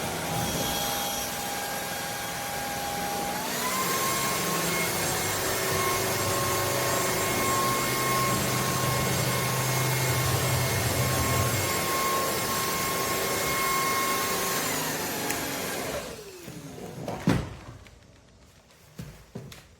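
Shark cordless stick vacuum running, its motor whine stepping up to a higher pitch a few seconds in. Near the end it is switched off and the whine winds down with a falling pitch, followed by a sharp knock and a couple of faint clicks.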